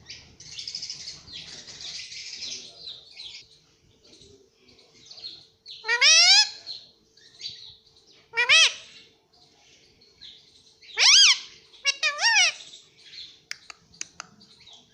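Indian ringneck parakeet calling: a raspy chatter at first, then four loud, shrill calls a couple of seconds apart, the last a quick double note.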